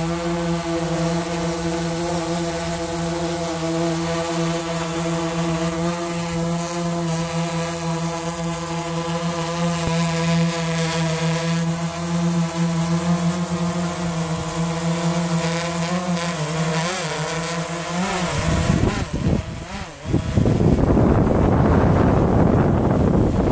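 DJI Phantom 3 Advanced quadcopter's motors and propellers running with a steady multi-tone hum. About 16 seconds in the pitch starts to waver, and about 20 seconds in the hum gives way to a louder rushing noise.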